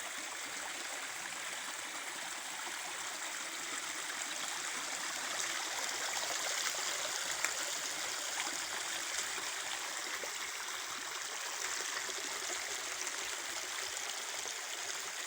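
Creek water running steadily, an even rushing noise without pauses.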